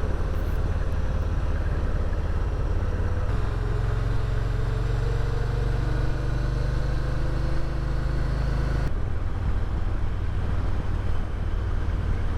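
Motorcycle engine running steadily at road speed with wind and road noise, heard from the rider's microphone. The hum shifts abruptly twice, about 3 seconds and 9 seconds in.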